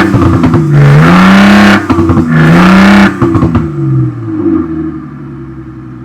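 Thor electronic exhaust speakers playing a simulated Porsche 911 Turbo S engine sound, revving up twice with a rising and falling pitch. A few short pops follow as it drops back to a steadier idle about three and a half seconds in.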